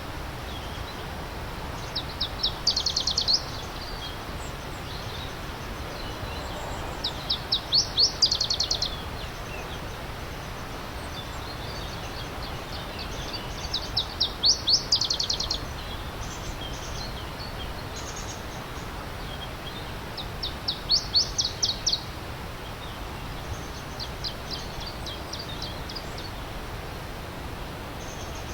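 A songbird repeating a short, fast trill of high notes, about five phrases spaced some five to six seconds apart, over the steady rush of a stream.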